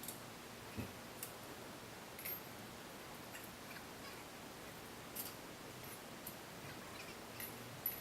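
Faint, scattered clicks and light taps at irregular intervals over a steady low hiss, with no engine running.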